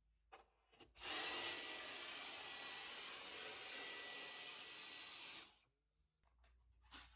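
Cordless Dyson vacuum running: a steady rush of air with a thin high whine, starting about a second in and stopping about four and a half seconds later. Two faint clicks come just before it starts.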